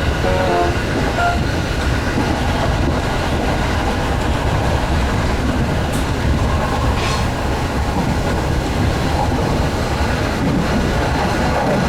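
JR 209 series electric train running at speed, heard from inside: a steady rumble of wheels on the rails and running gear.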